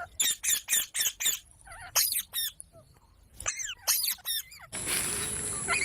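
Parrot squawking in quick runs of short, sharp calls, with brief pauses between the runs. About five seconds in the calls stop and a steady hiss takes over.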